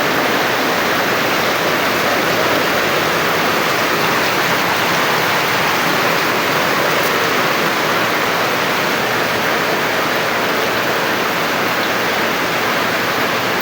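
Steady, unbroken rush of water, even in level throughout, of the kind made by heavy rain or fast-running floodwater.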